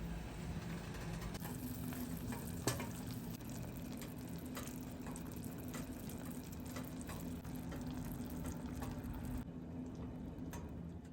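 Food frying in a pan, a steady sizzle with scattered clicks of a utensil stirring it and one sharper knock about two and a half seconds in. A steady low hum runs underneath.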